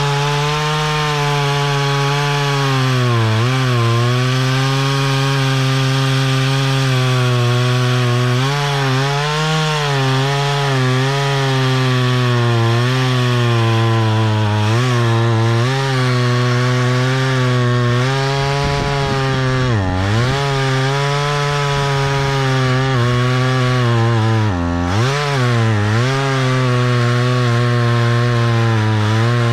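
Stihl MS170 two-stroke chainsaw running at high revs while its new Hipa semi-chisel chain cuts through a log. The engine note dips briefly and recovers several times as the chain bites in.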